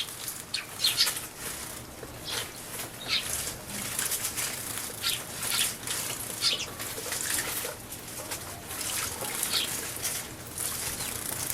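Tree sparrows bathing in a shallow bird bath: quick bursts of wing-fluttering and splashing in the water, coming irregularly every second or so.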